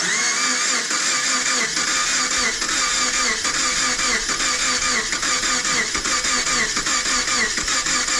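Subaru engine being cranked by its starter motor, turning over slowly in an even rhythm without catching, just after its cylinders were soaked with decarbonising cleaner.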